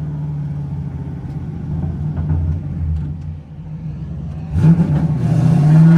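Drift car's LS3 6.2-litre V8 running at a steady idle, then revved sharply about four and a half seconds in, its pitch climbing and holding high.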